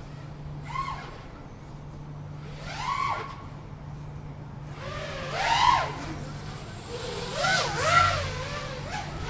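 FPV quadcopter's brushless motors whining, the pitch swinging up and back down with each burst of throttle, about five times. The bursts come closer together and louder near the end.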